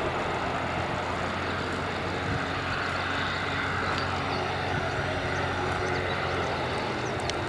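Steady jet engine noise from an Airbus A300-600ST Beluga's General Electric CF6-80C2 turbofans, heard as the freighter rolls out after landing.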